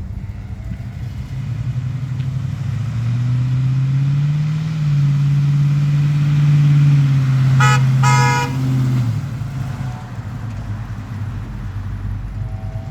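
The Chevrolet C10 pickup's V8 running, revved up a few seconds in, held at higher revs, then dropping back to idle near the end. Two short horn toots come about eight seconds in.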